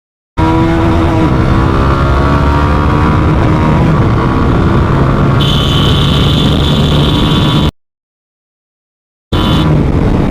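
GPX Demon 165 motorcycle's fuel-injected engine running under way, its pitch drifting up and down with the throttle. A steady high beep sounds over it for about two seconds past the middle. The sound drops out to dead silence for a second and a half near the end.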